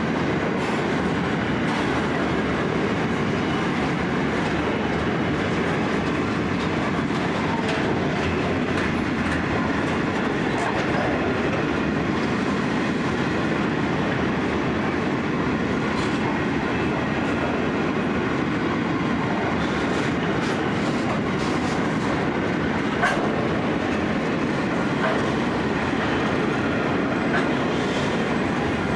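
Empty grain hopper wagons of a freight train rolling past, steel wheels clattering steadily over the rails, with a few sharper clicks.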